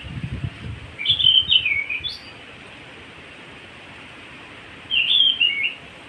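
A bird singing two short phrases of quick up-and-down whistled notes, one about a second in and one near the end, over a steady background hiss.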